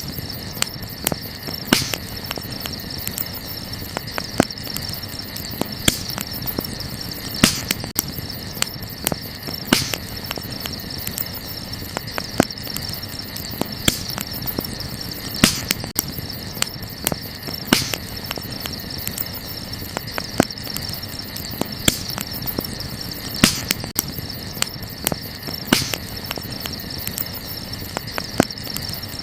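Wood campfire crackling, with irregular small pops and a louder snap every second or two, over a steady high-pitched background hum.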